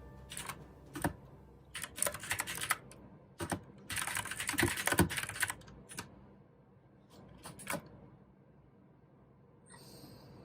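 Typing on a mechanical keyboard with clicky blue switches: scattered single keystrokes, then quick flurries of clacking keys, thinning out to a few strokes in the second half.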